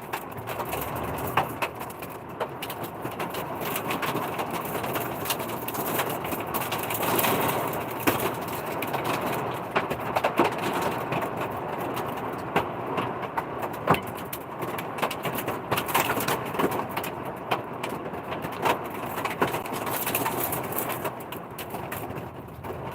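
Heavy rain and hail beating on a truck: a dense, steady patter broken by many sharp, irregular clicks of hailstones striking the metal.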